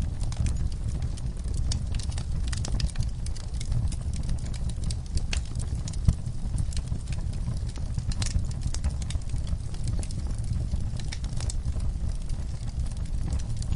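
Wood fire burning in a fireplace: a steady low rumble of flames with irregular crackles and pops, one sharper pop about six seconds in.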